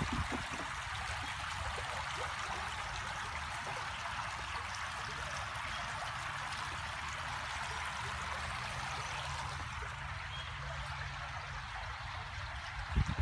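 Running water flowing steadily, an even rushing hiss.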